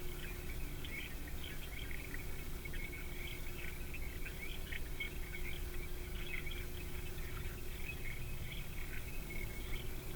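Many small birds calling at once: a dense scatter of short, high chips and twitters, over a steady low hum.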